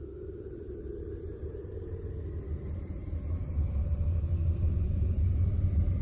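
Low rumbling space-sound drone of the kind played as a planet's sound, growing steadily louder, with faint tones slowly gliding up and down above it.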